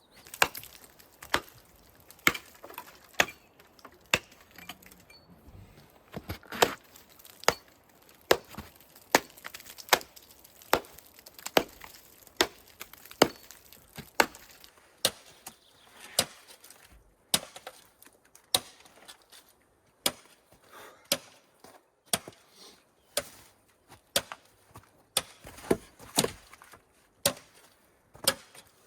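Steady chopping on wood: a long run of sharp, even strokes, a little over one a second.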